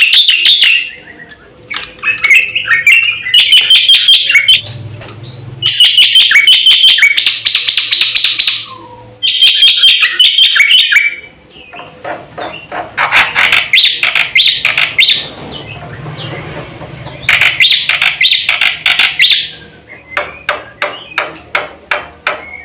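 Black-winged starling (jalak putih) singing loudly in bursts of a second or two. The song is a rapid, varied string of chattering and whistled notes with short pauses between phrases. Near the end come a run of sharp, evenly spaced clicks, about three a second.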